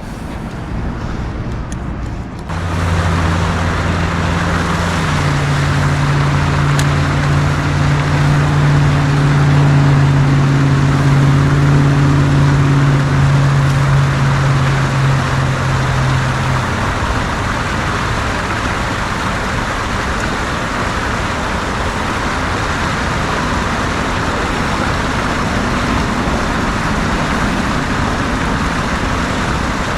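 A motor vehicle's engine hum over steady traffic-like noise. Both begin suddenly about two seconds in; the hum stops a little past halfway while the noise goes on.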